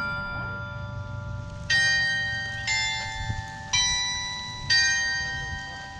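Bell-like chime tones: after a note already fading, four more are struck about a second apart, each ringing clearly and dying away.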